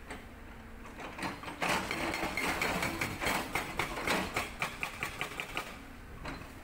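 Sangdo SD220 hydraulic breaker on a CAT 320D excavator hammering rock in a rapid, even run of blows that starts about a second in and stops near the end, over the low sound of the excavator running.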